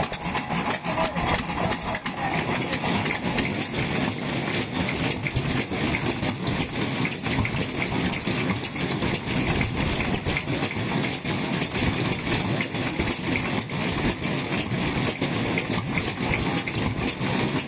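Vintage Japanese kerosene stationary engines running steadily, a continuous run of rapid exhaust beats.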